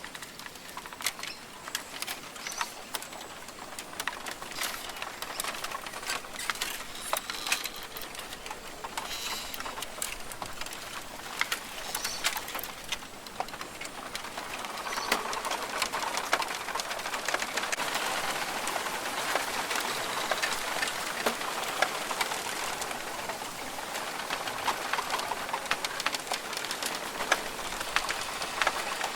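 Rainforest ambience: birds calling over many short, sharp ticks. About halfway in, a steady hiss builds up and the soundscape grows louder.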